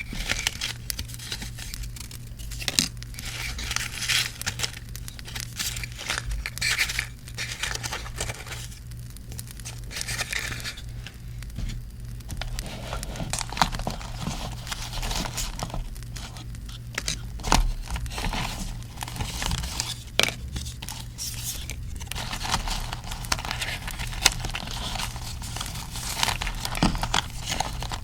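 Paper and postcards being handled: crinkling and tearing rustles with many small sharp clicks and taps.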